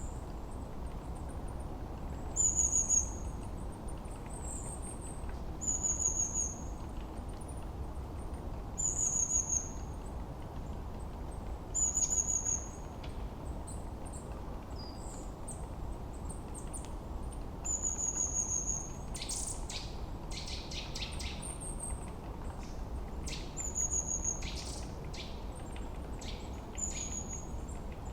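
Forest birdsong: a bird repeats a short, high, falling whistled note every few seconds over a steady low background rush. Around two-thirds of the way through, and again near the end, a rapid run of dry ticking chatter joins in.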